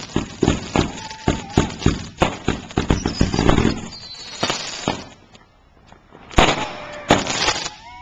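Consumer fireworks going off: a rapid string of sharp pops, several a second, mixed with short whistling tones, then a brief lull and two loud bangs near the end.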